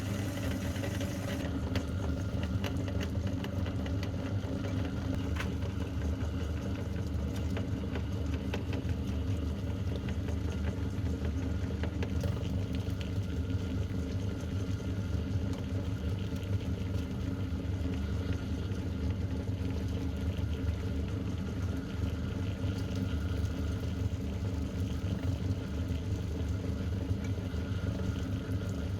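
Meat grinder's motor running steadily as it grinds polymer clay.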